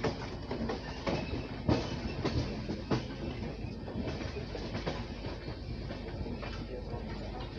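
Express passenger train's coaches running along the track, the wheels clacking over rail joints and points under a steady rumble. The clacks come thick in the first three seconds, then thin out.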